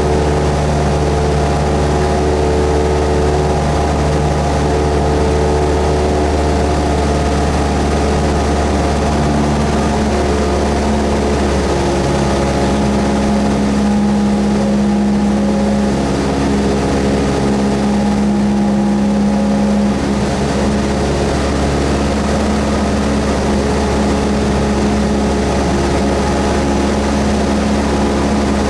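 Cessna 172S's four-cylinder Lycoming engine and propeller running at a steady drone, the engine note shifting slightly partway through with a small power change.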